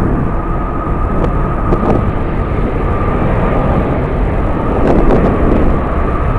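Strong wind buffeting the microphone, the loudest part, over jet airliner engines running with a steady high whine.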